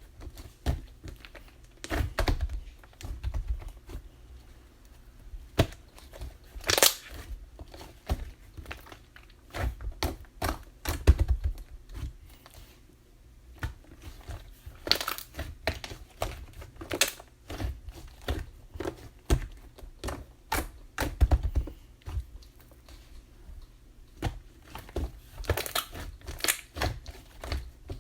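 Chocolate slime being squished, poked and stretched by hand, giving irregular sticky clicks, pops and crackles with some soft low thuds.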